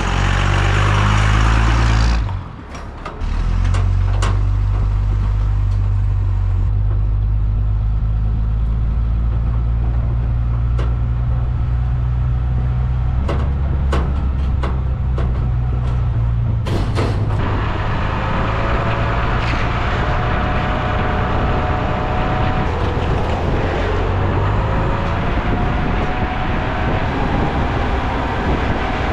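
Pressure washer running steadily, a low engine-like hum under the hiss of the spray. It drops away briefly about two and a half seconds in, then picks up again, with a few sharp clicks around the middle.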